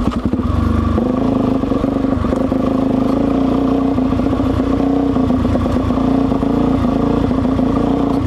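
Suzuki DRZ400's single-cylinder four-stroke engine pulling away at low revs for about the first second, then running steadily at an even speed.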